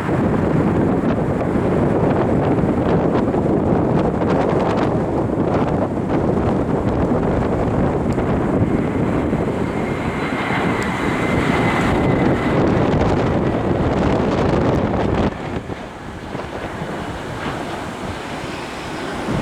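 Jet engines of an Airbus A320 on its landing run, heard through heavy wind noise on the microphone. A faint steady whine rises out of it about nine seconds in and fades about three seconds later. The overall sound drops suddenly about fifteen seconds in.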